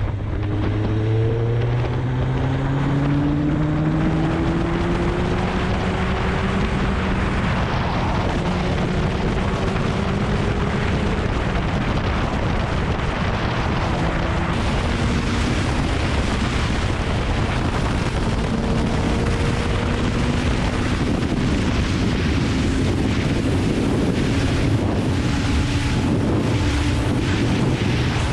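Kawasaki Ninja ZX-9R's inline-four engine running under way, its note rising over the first few seconds and climbing again later, with heavy wind noise on the action camera's microphone.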